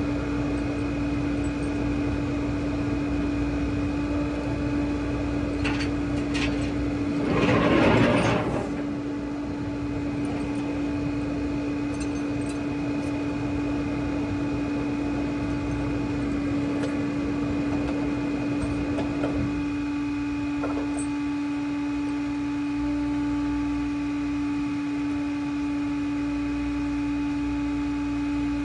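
Flatbed tow truck running with a steady mechanical hum, with a brief louder rush of noise about eight seconds in.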